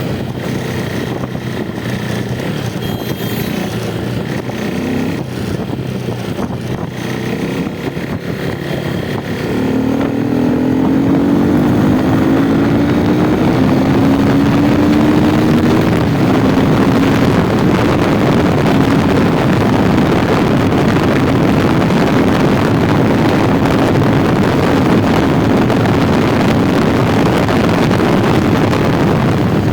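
Motorcycle riding: the engine pitch climbs as it accelerates about ten seconds in, then it holds a steady speed under loud wind noise on the microphone.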